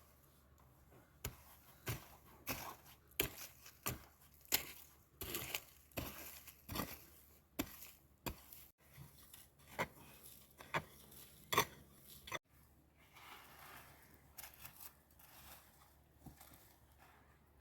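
A run of irregular sharp knocks and clicks, about one or two a second, that stops suddenly about twelve seconds in and gives way to softer rustling.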